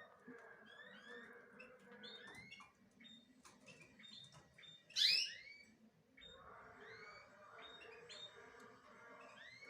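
Small songbirds chirping and twittering in short curved notes, with a louder burst of quick falling chirps about halfway through.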